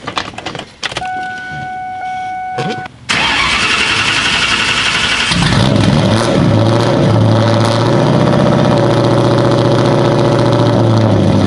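A few clicks and a steady electronic chime, then the straight-piped 4.6-litre V8 of a New Edge Mustang GT cranks on the starter about three seconds in. It catches a couple of seconds later and settles into a loud, steady idle.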